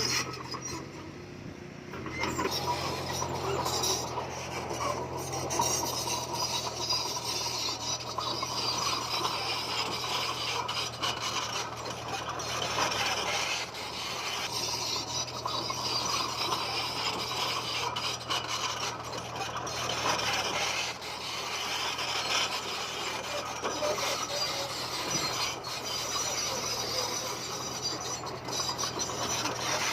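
Komatsu bulldozer at work: a steady low engine hum under continuous scraping and grinding of stone, with scattered knocks. It is quieter for the first couple of seconds, then the scraping picks up.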